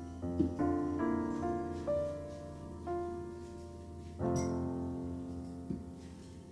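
Gentle solo piano background music: single notes and chords struck and left to fade, with a fuller chord about four seconds in.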